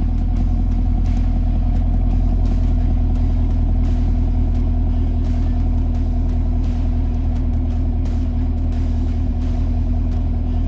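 The 6.2-litre V8 of a 2022 Chevrolet Camaro 2SS running steadily through its dual-mode exhaust, low and even, with no revving.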